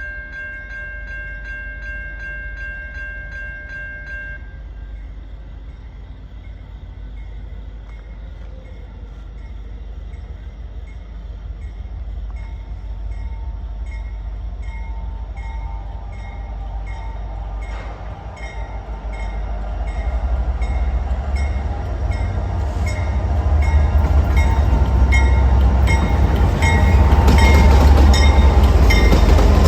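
A train horn sounds a steady chord and cuts off about four seconds in. Then a train draws closer, its low rumble growing steadily louder, with a regular click about once a second that gets stronger toward the end.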